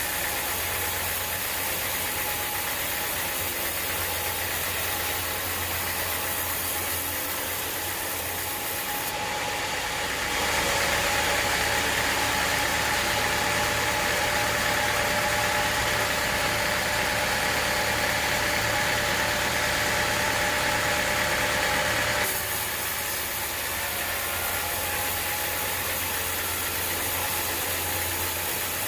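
Sawmill running steadily, with a louder, hissier stretch of about twelve seconds in the middle as the saw blade cuts through an acacia log, then dropping back to its running level.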